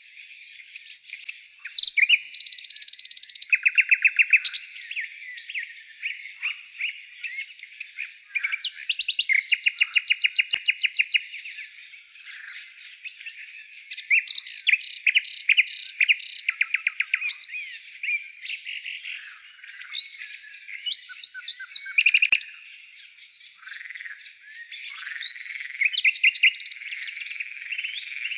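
Several songbirds singing at once: overlapping chirps and whistles, with repeated bursts of fast trills.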